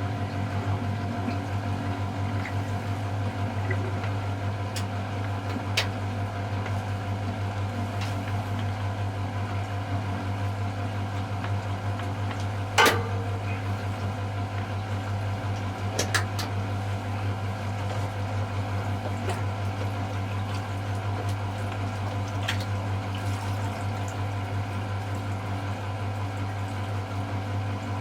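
Miele Novotronic W715 washing machine running early in its Delicates cycle: a steady low hum with water sloshing, typical of the machine taking in or moving water. A few short clicks, with a louder knock about halfway through.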